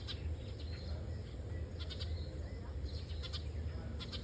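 Bird calls: short, rapid trills of high notes, repeating roughly once a second, over a steady low rumble.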